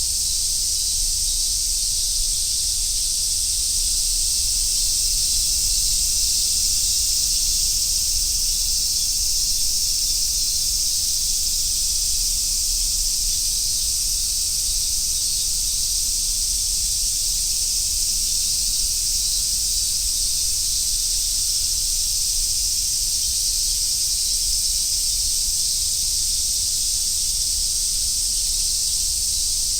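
A chorus of cicadas buzzing in a steady, unbroken high-pitched drone.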